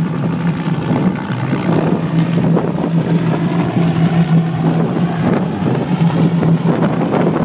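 Two AH-1 Cobra attack helicopters flying a fast dive, their rotors and engines loud with a steady low hum that drops out briefly a few times.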